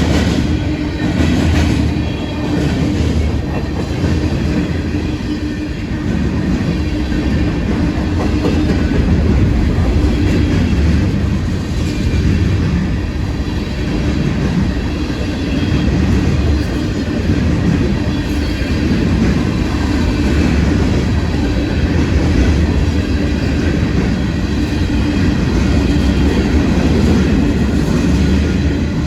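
CSX freight train's cars rolling steadily past, with a continuous heavy rumble of steel wheels on the rails and a steady hum.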